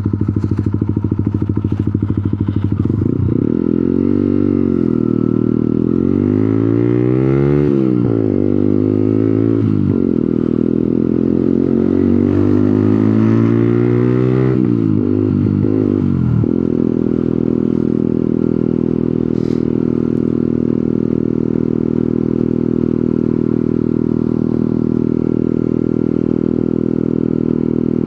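125cc motorcycle engine from the rider's seat, holding a steady note, then accelerating in several rising sweeps, each cut short by a gear change, before settling back to a steady note for the last part.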